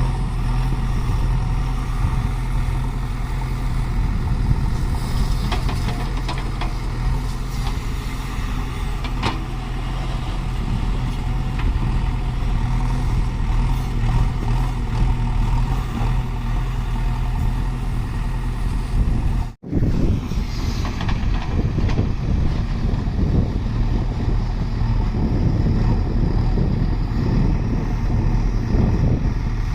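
Heavy diesel machinery engine running steadily under load. The sound breaks off for an instant about two-thirds of the way through, then continues with a rougher rumble.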